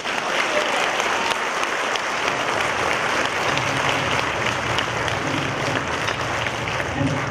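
Audience applauding in a hall, a steady, even clapping.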